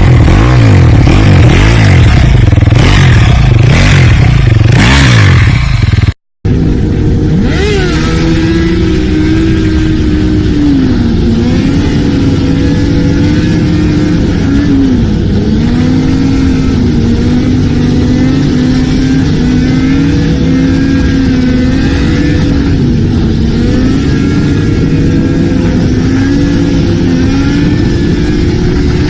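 Motorcycle engines: loud revving in the first six seconds, then after a brief cut a steadier engine note that rises and dips a little.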